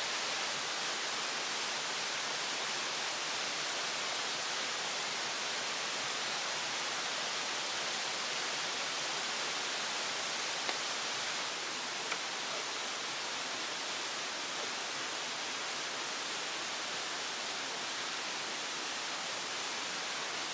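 Steady hiss of falling water, even and unbroken, with a couple of faint ticks about halfway through.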